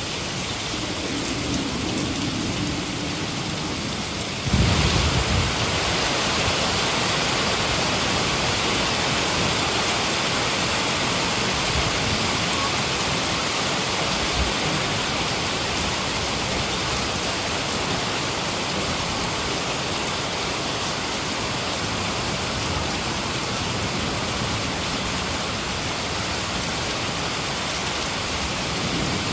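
Heavy rain falling steadily, with a sudden clap of thunder about four and a half seconds in; the rain sounds heavier after it.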